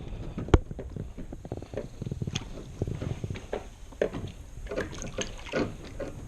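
Handling noises in a small boat as a bass is let go over the side: scattered knocks and rustles with some water sloshing, one sharp knock about half a second in.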